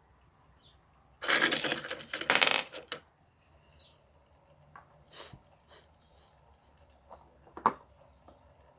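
Small stones rattling and clinking together for about two seconds, followed by a few scattered clicks and one sharper knock near the end.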